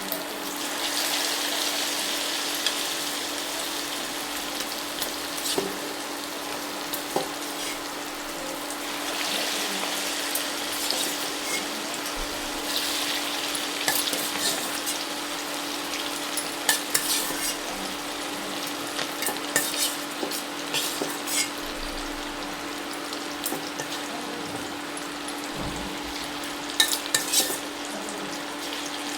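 Chicken pakoras deep-frying in hot oil: a steady sizzle that swells now and then, with sharp clinks of a utensil against the pan as they are stirred and turned, most often in the second half.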